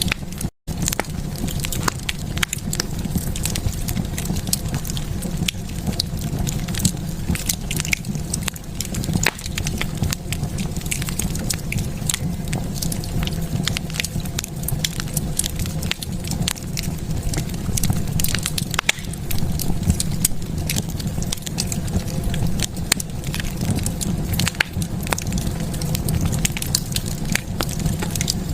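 Wood fire crackling in a fireplace: frequent sharp pops and snaps over a steady low rumble of the flames, with a split-second dropout about half a second in.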